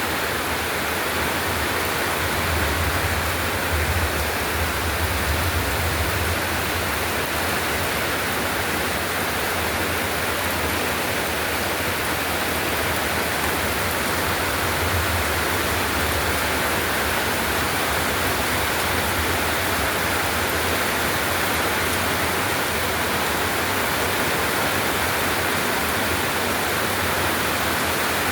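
Heavy storm rain pouring down in a steady rushing hiss, with a low rumble that swells a few seconds in and again around the middle.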